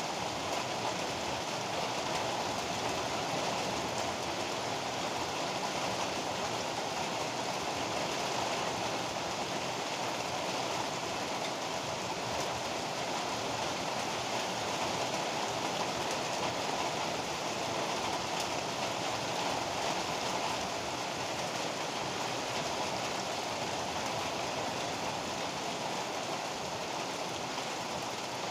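Heavy rain pouring steadily, an even hiss with no thunderclaps or other sudden sounds.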